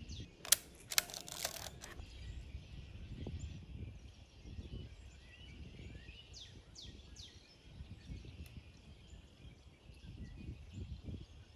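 Quiet outdoor ambience with a low rumble. There are a few clicks and rustles in the first two seconds, and a bird gives three quick downward chirps about six seconds in.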